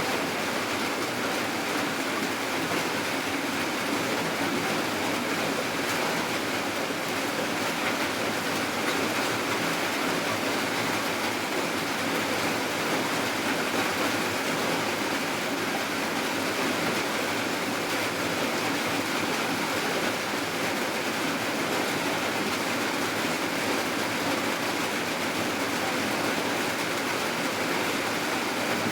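Steady rainfall, an even hiss of falling rain with no breaks or changes.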